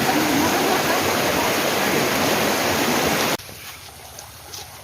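Loud, steady rush of flowing water from a stream or small waterfall. It cuts off abruptly about three and a half seconds in, leaving a much quieter trickle of water.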